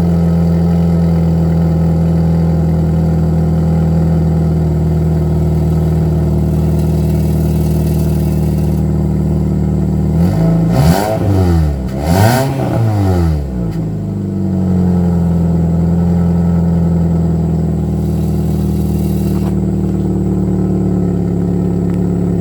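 Toyota Vios 1.5 G's 1.5-litre four-cylinder engine through its stock exhaust, idling steadily. About halfway through it is revved twice in quick succession, the pitch rising and falling each time, then it settles back to idle.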